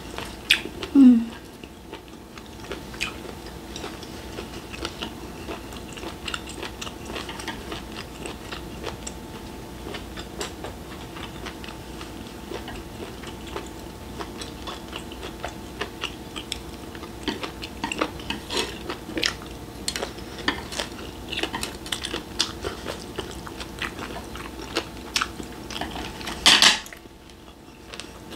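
Chewing and biting on grilled beef intestines, with many small clicks of chopsticks against the grill pan and dishes over a steady low hum. A short falling 'mm' about a second in, and a brief loud burst of noise near the end.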